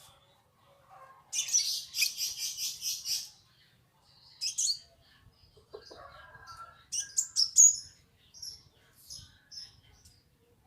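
Caged birds chirping: a fast run of about eight high chirps starting about a second and a half in, then scattered shorter chirps and calls, the loudest around seven to eight seconds in.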